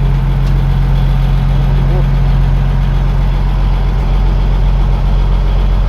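Fishing boat's engine running steadily at idle, a deep, even drone.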